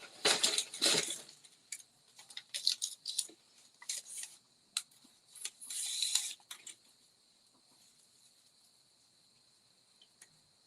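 Crinkling, rustling and small clicks of hands handling paper and card, with a glue dot being pulled from its roll, busiest in the first second and again briefly around six seconds in, then dying down to faint hiss.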